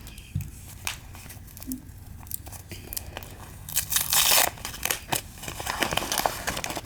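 A mail package being torn open by hand: packaging tearing and crinkling in irregular bursts, the longest and loudest about four seconds in.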